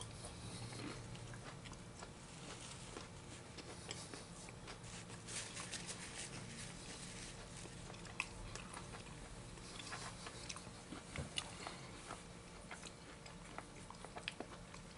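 A person biting and chewing a walnut sugar cookie, faint crunching with scattered small crackles.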